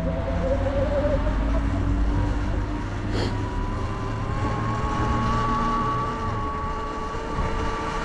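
Sur Ron electric dirt bike's motor whining steadily while riding, the whine moving higher about a third of the way in, over a low rumble.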